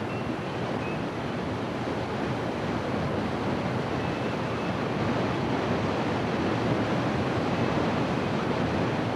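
A fast, turbulent river running through rapids: a steady, dense rush of white water.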